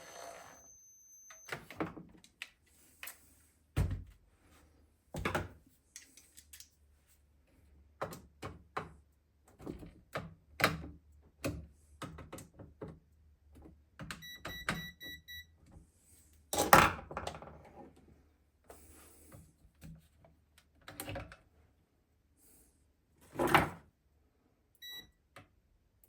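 Plastic housing parts of a Flymo Hover Vac 250 mower being handled, fitted together and screwed up: scattered clicks and knocks, with two louder thumps near the middle and toward the end.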